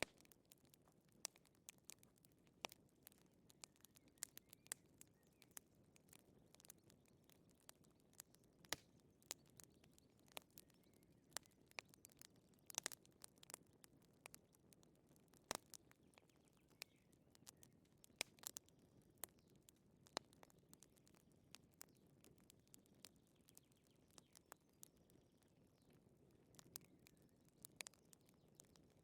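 Quiet wood fire crackling: irregular sharp pops and snaps over a soft, low hiss of burning.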